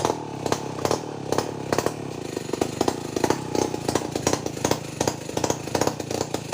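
Two-stroke chainsaw engine running steadily at a fairly even speed, with repeated sharp knocks and clatter over it, several a second.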